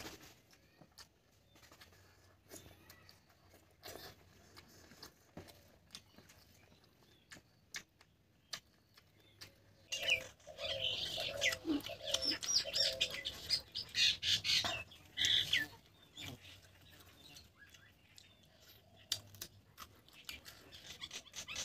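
Close-miked chewing and soft mouth clicks of someone eating rice and curry by hand. From about ten seconds in, a bird chirps loudly in quick runs for several seconds.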